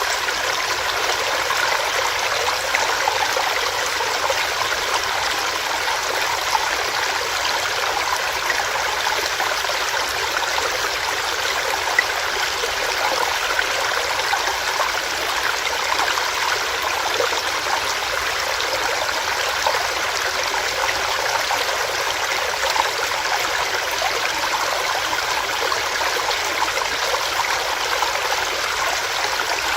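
A small stream running over rocks, a steady splashing and gurgling rush of water.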